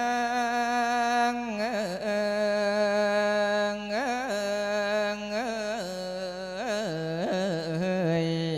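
A monk's voice singing thet lae, the melodic Thai-Lao sermon chant, drawing out a long vowel in held notes with quick wavering ornaments between them, and stepping lower in pitch near the end.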